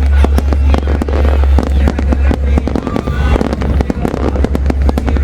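Fireworks exploding in rapid succession: a dense run of sharp bangs and crackles over a constant deep rumble.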